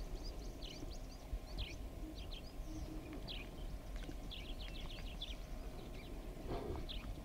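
Birds chirping in quick, short, mostly falling notes, over a steady low rumble. About six and a half seconds in there is a brief, lower sound.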